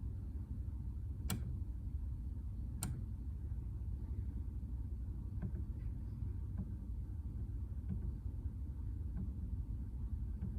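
Kawai NV10 hybrid piano's grand-style key action clicking as keys in the seventh octave are played: two sharp clicks in the first three seconds, then fainter clicks about once a second, over a steady low hum. The clicks are a weird action noise in the seventh octave, cause unknown.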